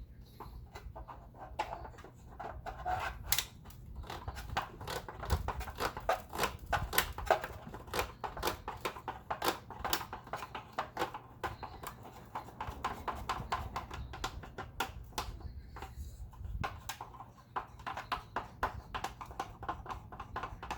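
A tool scraping and picking packed dust and debris out of a clogged vacuum cleaner air tube, a rapid irregular run of clicks and scrapes against plastic.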